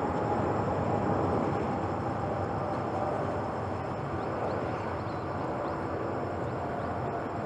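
Boeing 787-9 Dreamliner's jet engines at takeoff thrust, a steady rumble with a faint tone that slowly sinks in pitch as the airliner climbs away, easing off slightly in loudness.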